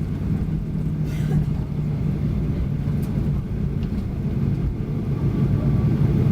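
Boeing 737 cabin noise: a steady low rumble and hum of the engines and airframe, with a brief hiss about a second in and a few faint clicks.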